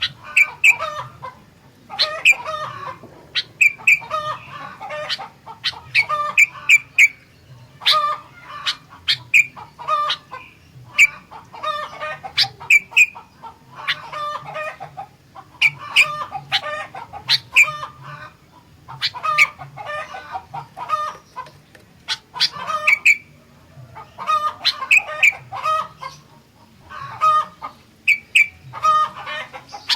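Sooty-headed bulbul (kutilang) singing steadily in short bubbling phrases of quick notes, one every second or two with brief pauses between.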